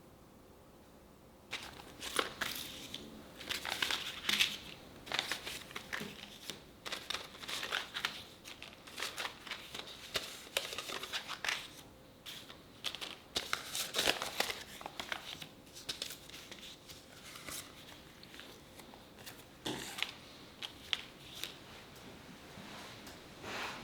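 Irregular crackling, rustling and clicking handling sounds, starting about a second and a half in.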